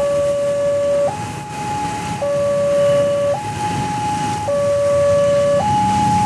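Railway level-crossing warning alarm sounding a two-tone electronic signal, a lower and a higher tone alternating about once a second, over a low rumble.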